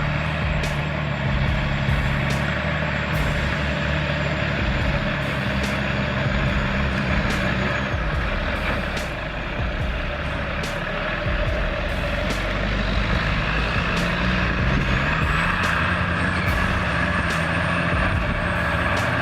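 Heavy diesel machinery running steadily, an engine drone with a thin high whine above it and regular faint ticks, dipping slightly in loudness about halfway through before picking up again.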